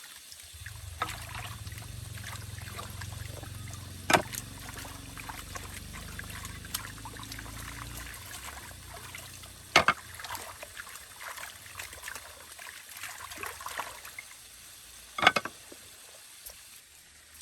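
Water pouring and trickling with many small splashy ticks, over a low rumble that fades out about halfway through. Three sharp knocks stand out, about five seconds apart.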